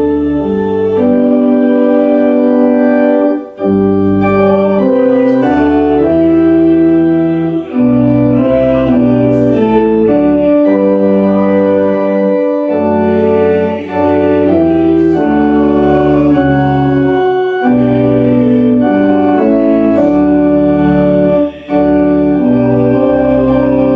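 Church organ playing slow held chords that change every second or two, with a few brief breaks between phrases, typical of a hymn being played through.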